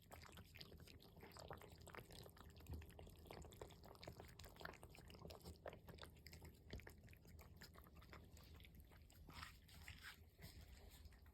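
Cats chewing and crunching dry food, faint, a steady run of small irregular crunches.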